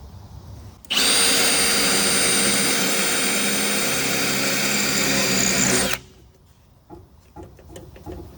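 Handheld power tool running at full speed for about five seconds, starting and stopping abruptly, with a few faint clicks after it stops.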